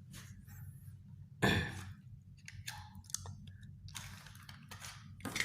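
Hands handling a cardboard cigarette pack and a cutter and scissors: a string of small clicks and rustles, with one louder knock about one and a half seconds in, over a low steady hum.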